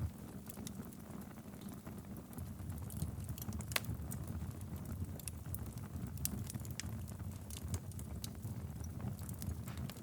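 Wood fire burning in a fireplace: a steady low rumble of flame with scattered sharp crackles and pops, one louder pop about four seconds in.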